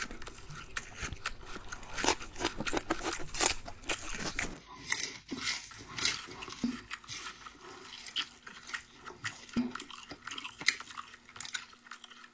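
Mukbang-style eating of raw vegetables: a string of irregular crisp crunches and bites with chewing, as leafy greens and spring onions are bitten into.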